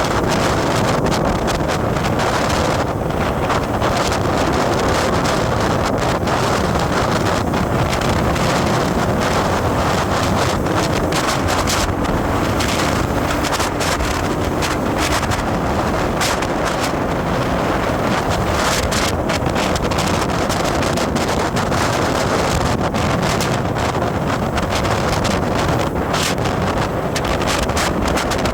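Wind buffeting the microphone over the steady noise of a vehicle travelling along a road.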